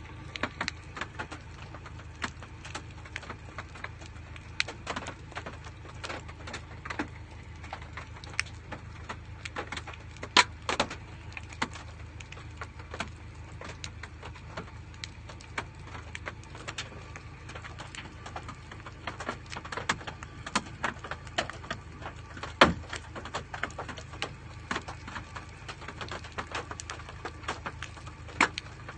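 Hailstones striking a hard surface: irregular sharp clicks and knocks, several per second, a few much louder hits, over a steady low rumble.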